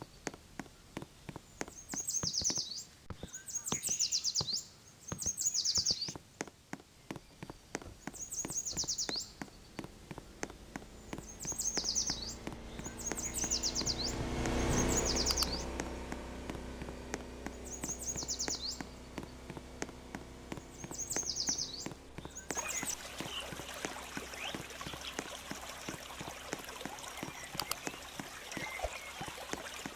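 A songbird singing a short, high phrase again and again, with many sharp clicks or crunches throughout. About halfway through a low hum swells and fades, and near the end the song stops, leaving a steady hiss with faint chirps.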